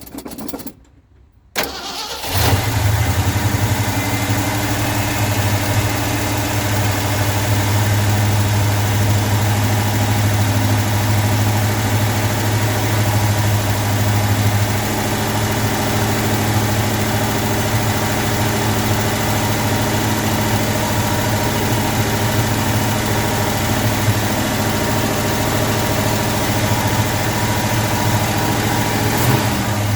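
Cold start of a 1972 Ford F-250 4x4 pickup's engine: a few short bursts, a brief pause, then the engine catches about two seconds in and settles into a steady idle that eases slightly about halfway through.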